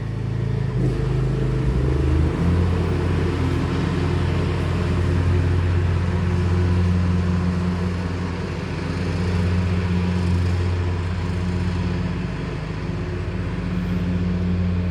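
An engine running steadily nearby: a loud, low hum that steps up in pitch about two seconds in and then holds.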